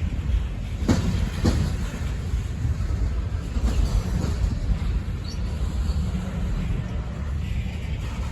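Railroad cars of a passing Norfolk Southern freight train rolling by with a steady low rumble. A pair of sharp wheel clunks over a rail joint comes about a second in.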